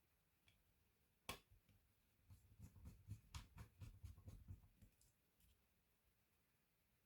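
Faint handling noises from laptop disassembly: one sharp click, then about two and a half seconds of quick small clicks and soft knocks as hard plastic and metal parts are handled.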